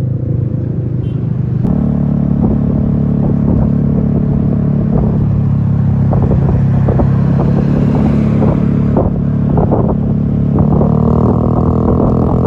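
Large bus's engine running loud and steady, its drone stepping up about two seconds in, with some clatter over it.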